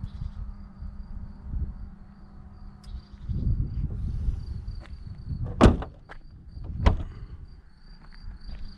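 Car doors of a DS 9 shutting: two solid thuds, about five and a half and seven seconds in, after a stretch of low rumbling.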